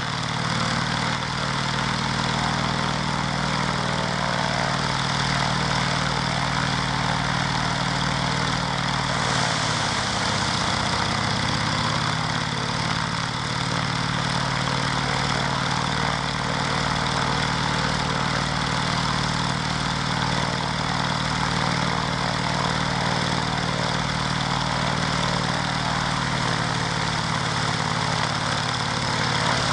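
Twin Pioneer's Alvis Leonides nine-cylinder radial piston engine and propeller running steadily on the ground at low power. The pitch dips and recovers about ten seconds in.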